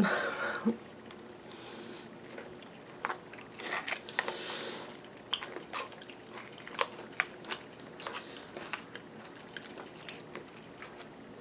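A person chewing a mouthful of crunchy granola with yogurt: scattered crisp crunches and clicks.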